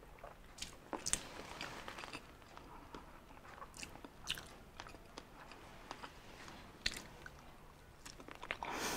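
A person chewing roast pork close to the microphone: faint, irregular mouth clicks and smacks.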